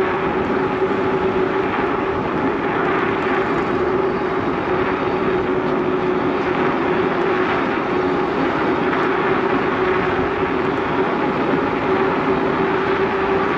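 Steady rush of wind and rolling tyres from a moving bicycle with a camera riding along, with a steady hum running underneath.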